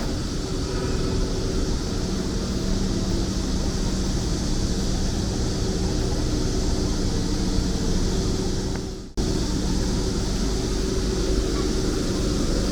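City street traffic: a steady wash of passing vehicles' engines and tyres with a low engine hum. The sound drops out for an instant about nine seconds in.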